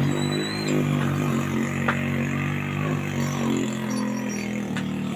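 A vehicle engine running at a steady speed, a low even hum that begins to fade near the end.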